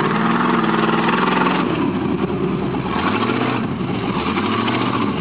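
Off-road truck engine revving under load, its pitch climbing for about a second and a half, easing off, then climbing again about three seconds in.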